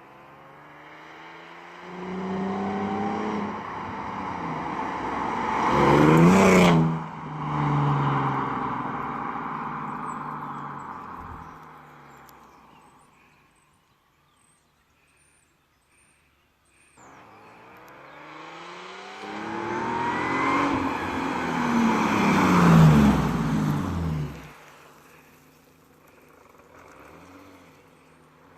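Mercedes C32 AMG's supercharged V6 through a custom straight-through exhaust, driving past twice under acceleration. The exhaust note rises as the car approaches, peaks about six seconds in, drops in pitch as it passes, then fades away. After a few seconds of quiet, a second pass builds to a louder peak and cuts off suddenly.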